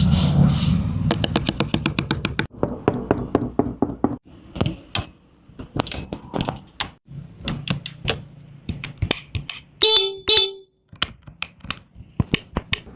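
A Honda Forza 250 scooter being put through its sound check: a string of clicks and knocks from its switches and parts, with a low hum during the first couple of seconds. About ten seconds in, its horn gives two short beeps.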